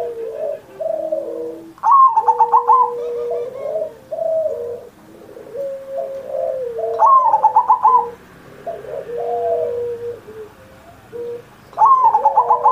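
Zebra dove (perkutut) singing its cooing song: three times, about five seconds apart, a loud phrase of rapid stuttering notes, with lower drawn-out coos between them.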